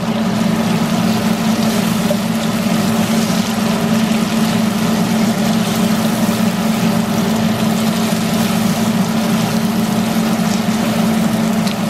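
Chicken pieces frying in a wok, sizzling steadily as they are turned with a spatula, over a steady low mechanical hum.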